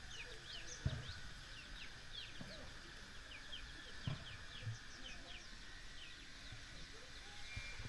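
Birds chirping: a steady stream of short, high, falling chirps, several a second, over a faint rural background, with a couple of soft low thumps.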